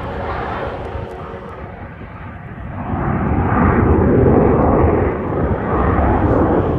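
Blue Angels F/A-18 Super Hornet jet roar passing overhead. It fades a little, then swells loud again from about three seconds in.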